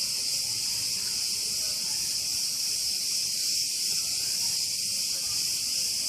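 Dense, steady chorus of cicadas singing in the trees: a continuous high-pitched buzz with no breaks.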